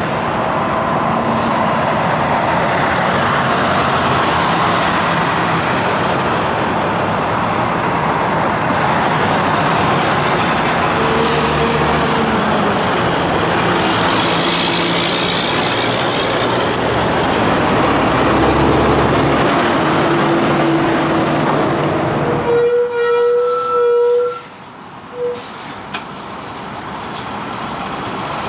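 Semi trucks passing on a highway, with loud, steady diesel engine and tyre noise. About three-quarters of the way through, the noise drops away abruptly, leaving a few brief steady tones, before the next vehicle's road noise builds again.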